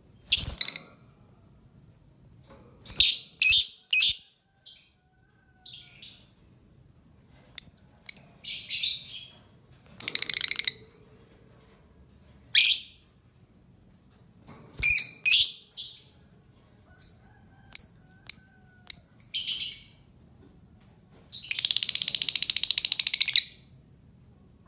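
Recorded bird calls played as a trapping lure: short bursts of high chirps and whistles every second or two, then a rapid chattering trill of about two seconds near the end, over a faint steady high whine.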